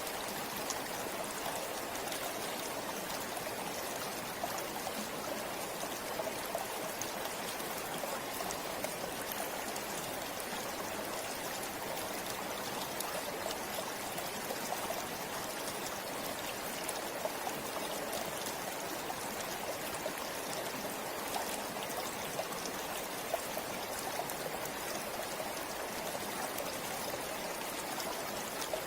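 River flowing steadily, a continuous rush of water with small splashes scattered through it.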